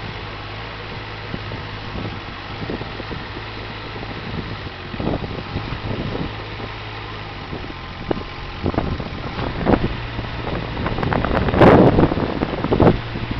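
Digger engine running steadily, with scattered knocks and clanks as it works; the loudest knock comes near the end.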